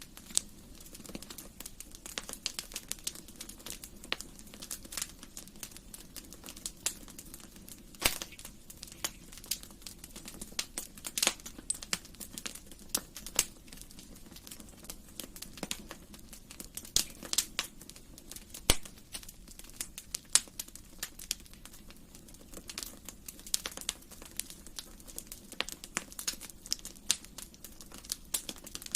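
Wood fire in a fireplace crackling: irregular sharp pops and snaps, several a second, over a soft low hiss of the flames.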